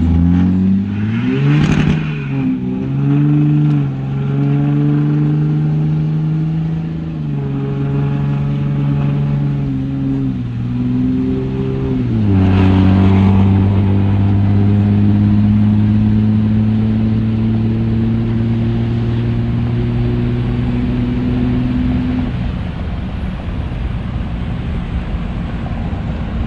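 Engine running through a new 5-inch exhaust as the vehicle drives off. It revs up at first, then its pitch drops in steps at the gear changes. After that it holds a steady drone that slowly eases off and fades about four-fifths of the way through, with brief rushing noises about two seconds in and again around the middle.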